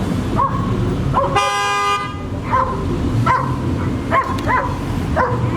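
A dog barking over and over in short yelps, with one brief car horn honk about a second and a half in.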